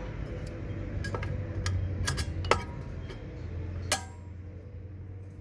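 Irregular sharp metallic clinks and taps of hand tools against metal parts, over a low steady hum; the two loudest come about two and a half and four seconds in.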